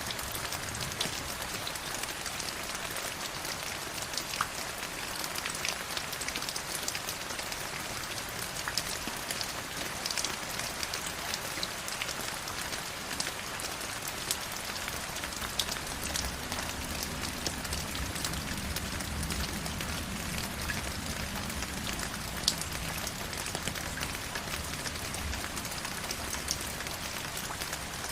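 Steady rush and splash of flowing stream water, full of small drip and splash ticks. About halfway through a low rumble joins underneath it.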